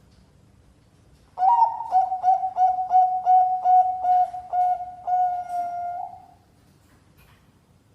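Bangkok-type zebra dove (perkutut) singing one cooing phrase. It opens on a rising note, runs through about a dozen short coos on one pitch, and ends on a longer held coo. The phrase starts about a second and a half in and stops about two seconds before the end.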